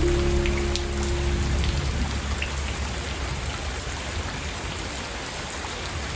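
Steady rain falling, an even hiss with scattered drop ticks. A soft, low sustained music chord fades out in the first two seconds, leaving the rain on its own.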